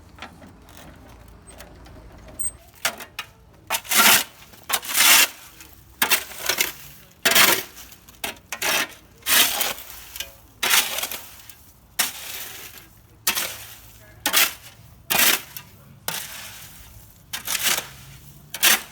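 Repeated gritty scraping strokes of a hand tool digging through gravel and rubble, about one a second, starting about three seconds in.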